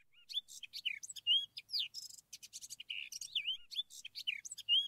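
Birds chirping: a quick, busy run of short whistled chirps and rising and falling glides, several notes overlapping.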